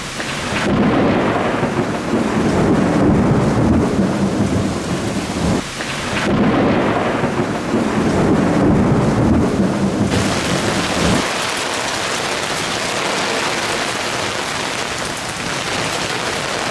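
Heavy downpour: rain pouring hard and steadily, with a loud low rumble under it for the first eleven seconds or so, which stops abruptly and leaves an even hiss of rain.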